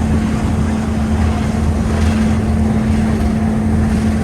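Steady, loud mechanical drone of the Snowdon Mountain Railway train, heard from inside the carriage: a constant hum over a low rumble.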